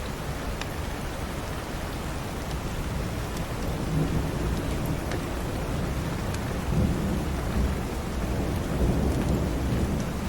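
Steady rain with a low rumble of thunder that swells from about four seconds in and rolls on. A few sharp crackles from the fireplace stand out over the rain.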